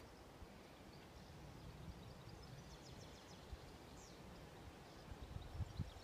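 Near silence of quiet outdoor ambience, with a few faint bird chirps around the middle and some low rumbling thumps near the end.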